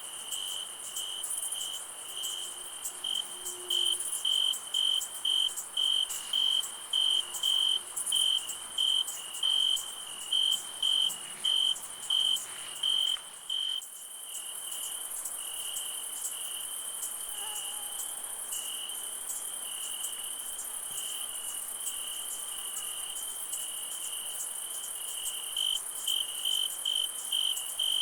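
Night insects: crickets chirping at about two chirps a second, turning into a continuous trill about halfway through and returning to chirps near the end, over a steady high-pitched insect buzz.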